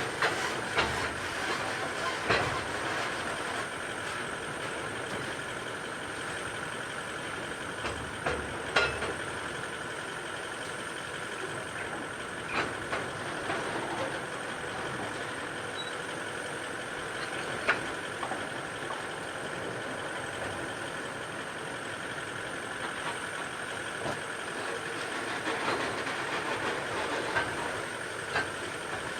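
Grain hopper wagons of a freight train rolling past: steady wheel and rail noise with a high ringing tone, broken every few seconds by sharp clunks and clicks from the wheels.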